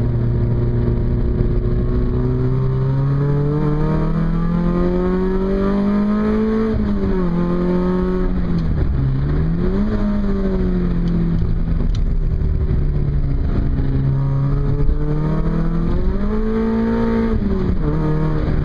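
Car engine heard from inside the cabin while lapping a circuit, its note climbing slowly over the first six seconds under acceleration, then dipping and rising again several times as the driver lifts off and gets back on the throttle.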